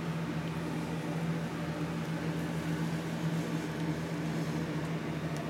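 Steady low mechanical hum with a faint hiss behind it, unchanging throughout.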